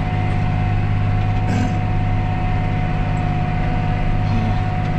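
Tractor engine running steadily under load, heard from inside the cab, with a constant thin whine over the low drone and a brief rattle about a second and a half in.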